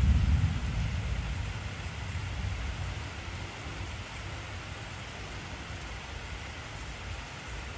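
Steady, intense rainfall hissing evenly. A low rumble of thunder is loudest at the start and dies away over the first few seconds.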